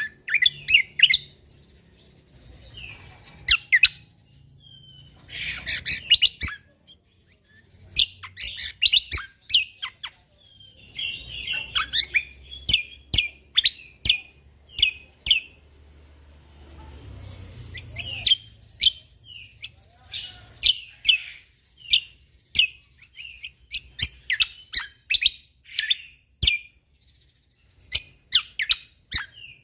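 Cucak kombo (kecial kombo), a Lombok songbird, singing: bursts of quick, sharp, sweeping chirps and whistles separated by short pauses.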